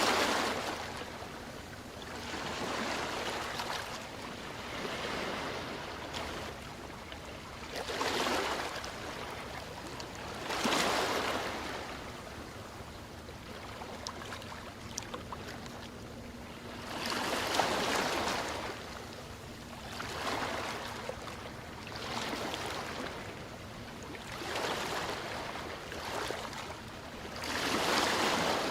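Ocean waves washing onto a shore, a steady wash of surf swelling into a louder breaking wave every few seconds, with the biggest surges about 8, 11, 18 and 28 seconds in.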